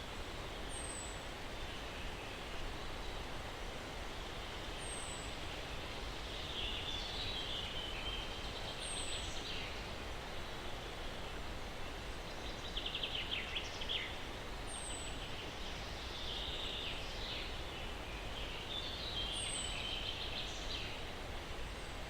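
Steady breeze hiss through trees with birds singing: a short high falling chirp about every four to five seconds, and several bouts of chattering, trilling song.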